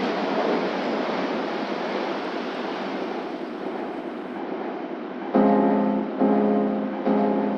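A steady rushing noise that slowly fades. About five seconds in, background piano music comes in, with a chord struck roughly every second.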